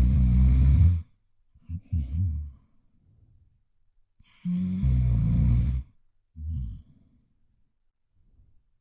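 Loud snoring from a sleeping girl: twice, a long snore on the breath in is followed by a shorter, softer breath out, with about four and a half seconds between the snores.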